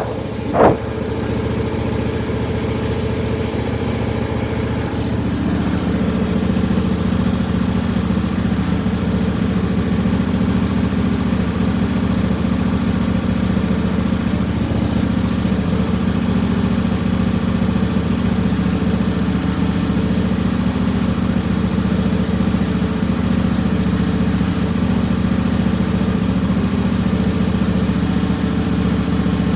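Riding lawn tractor's small engine running steadily after a warm restart, its note settling and growing a little louder about five seconds in.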